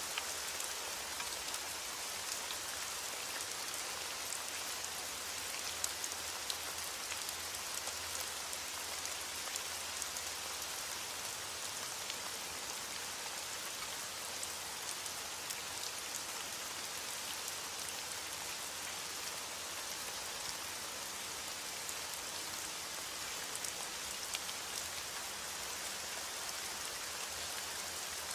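Heavy rain falling steadily on a window: an even hiss scattered with many small, sharp taps of drops.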